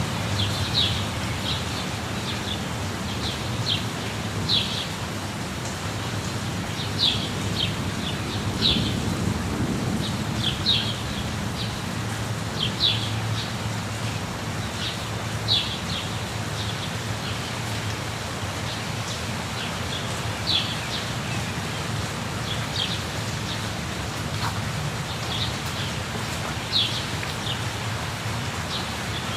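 Steady rush of a waterfall, with birds giving short high chirps over it, often two or three in quick succession, every second or two.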